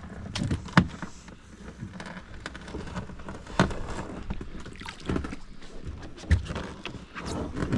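Knocks and bumps against a kayak's hull as a person climbs into it: a handful of irregular sharp knocks, the clearest a little under a second in and after about three and a half seconds.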